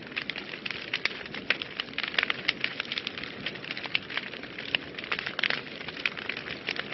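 Wood fire burning in a fireplace, crackling steadily with many sharp pops and snaps, several a second, over a soft hiss of flame.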